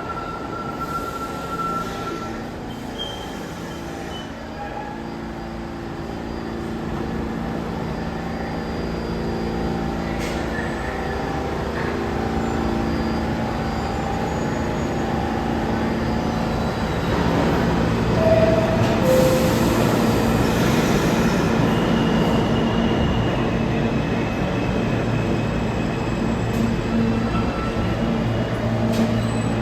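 New York City subway train running through the station: a steady rumble of wheels on rail with a few short, thin wheel squeals. The noise grows louder about halfway through.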